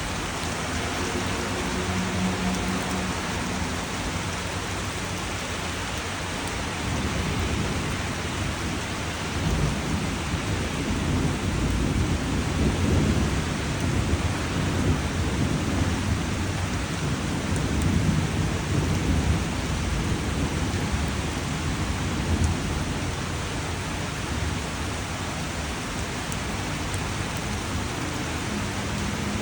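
Steady rain falling, with a long low rumble of thunder that builds a quarter of the way in, rolls on for about fifteen seconds and dies away.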